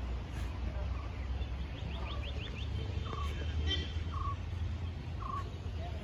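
Birds calling in forest: a quick run of about six short high chirps, then short calls repeated about once a second, over a steady low rumble.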